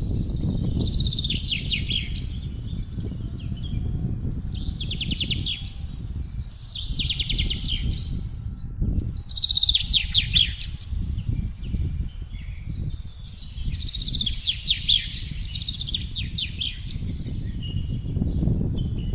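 Songbirds singing repeated trilled phrases of rapid high notes, each lasting a second or so, over gusty wind rumbling on the microphone.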